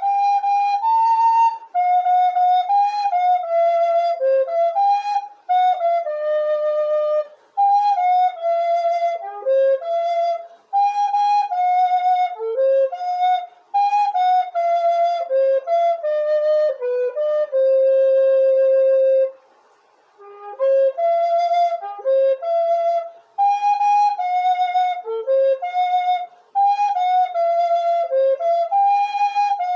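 Solo flute playing a hymn melody, one line of notes in phrases separated by short breath pauses. About two-thirds of the way through it holds one long low note, then stops briefly before the next phrase.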